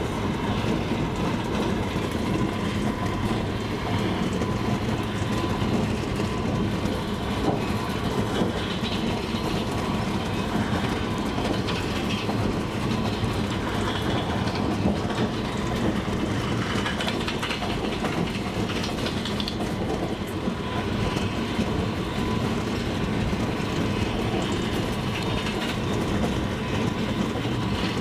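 Wheels of a double-deck passenger train clattering over the rail joints as it runs at a steady speed, over a constant rumble of the moving train.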